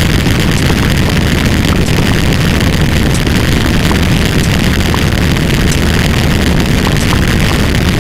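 A loud, steady rumbling noise, heaviest in the low end, with no rhythm or change in pitch.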